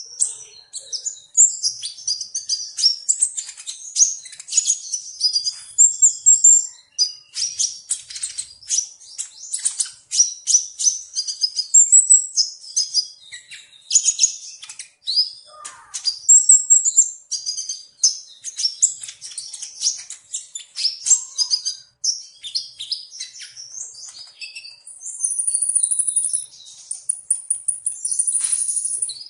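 Sunbird singing: a fast, high-pitched run of chirps and twittering trills, with a steady buzzy high trill near the end.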